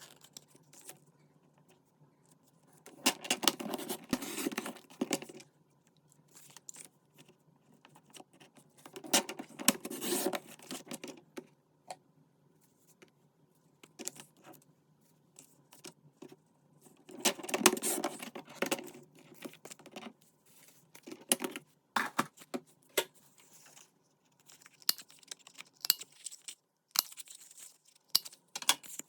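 Paper and craft materials being handled on a desk: paper rustling in three longer spells, about three, nine and seventeen seconds in, with light taps and clicks between.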